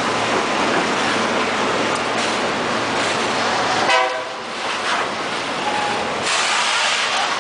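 Loaded freight train rolling past close by: a steady rumble and clatter of wagons on the rails. A brief pitched sound comes about four seconds in.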